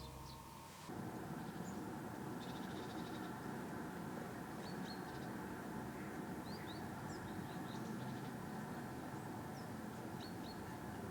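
Faint, scattered short chirps of small birds over a steady low background noise, as a fading music tail ends about a second in.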